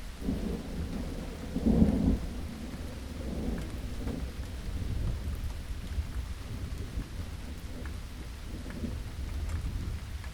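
Steady rain with rolling thunder; a louder thunder rumble swells about two seconds in, then keeps grumbling lower under the rain.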